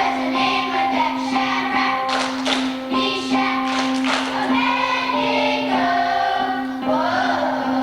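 A children's choir singing with instrumental accompaniment, the notes moving over a steady held low tone.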